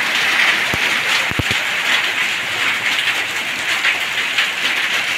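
Heavy rain pouring onto a paved lane and brick walls: a dense, steady hiss of drops striking water-covered ground. A few dull knocks come about a second in.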